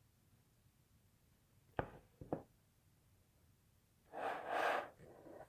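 Quiet handling of a hand-painted model locomotive as it is turned to show its other side: two light clicks about two seconds in, then a brief rustle a little after four seconds.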